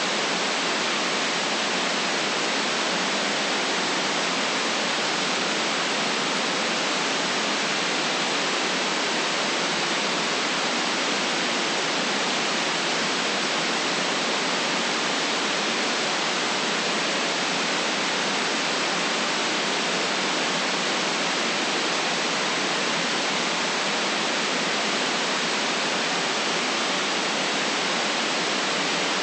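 Steady synthetic white noise, an even hiss that does not change, cut off below the low bass and above the high treble.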